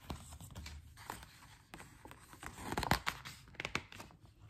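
A page of a picture book being turned by hand: paper rustling with a series of sharp crackles, loudest a little before three seconds in.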